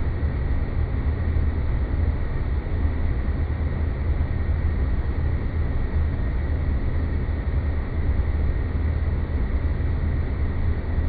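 Synthetic space ambience: a steady deep rumbling drone of noise with a faint high tone held over it.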